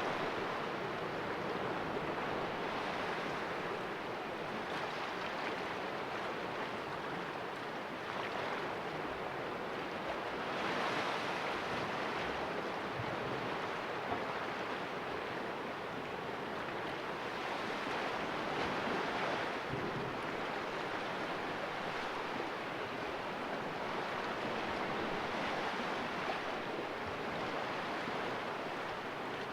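Sea waves washing against the rocks of a small cove, a steady rush of surf that swells every few seconds.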